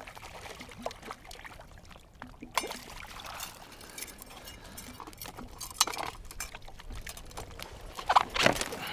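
Water splashing and dripping, broken by scattered clicks and clinks of tackle, as a hooked kokanee salmon is brought in and landed in a kayak. The loudest splashes come about a third of the way in, past the middle, and near the end.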